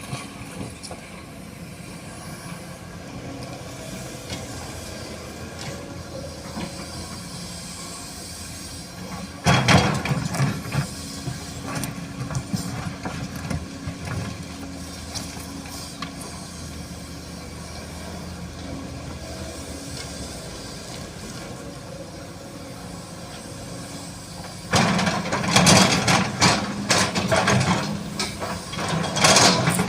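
SANY SY215C excavator's diesel engine running steadily as the machine digs. It grows louder and rougher briefly about ten seconds in, and again over the last five seconds, as it works under load.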